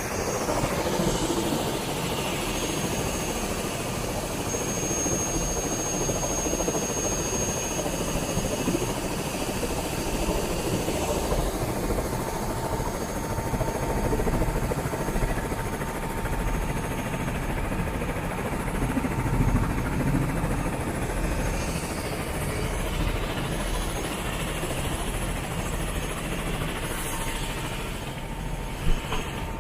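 Helicopter engine and rotors running steadily, a constant noisy drone with a deep rumble underneath. A brief knock near the end.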